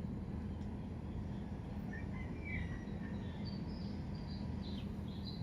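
A bird chirps several times in short, high notes over a steady low background rumble.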